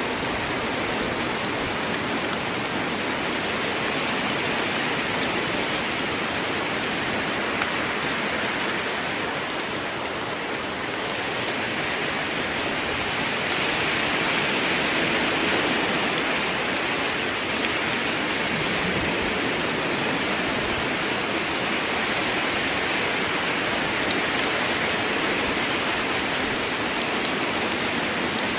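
Steady heavy rain falling in a forest, a dense hiss with many fine drop patters, swelling slightly about halfway through.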